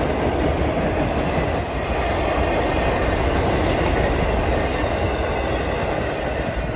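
Freight train cars rolling past on the track, a steady noise of steel wheels on rail.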